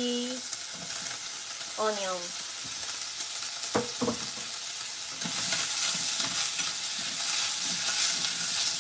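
Pork sizzling in oil in a hammered Japanese saucepan (yukihira) as sliced Japanese long onion (negi) is added, with two sharp knocks a little under four seconds in. From about five seconds the sizzle grows louder while the meat and onion are stirred and scraped around the pan with chopsticks.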